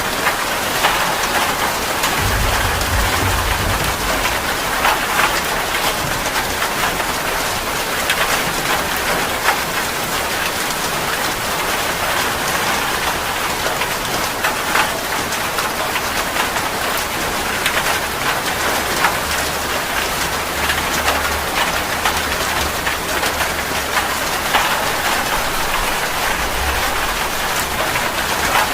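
Steady heavy rain: a dense, even patter of drops hitting a surface. A low rumble sits underneath about two seconds in, and again for much of the second half.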